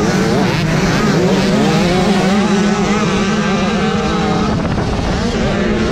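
A pack of motocross dirt bikes racing, several engine notes revving up and down over one another above a steady low drone.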